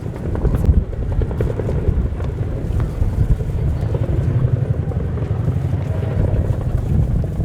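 CH-47J Chinook tandem-rotor helicopter flying, its rotors beating over a steady low drone.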